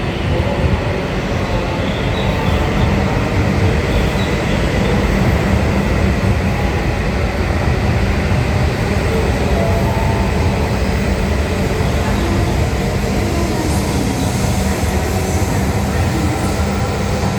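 E5-series Shinkansen train departing a station platform and running past, a loud, steady rumble of wheels and running gear.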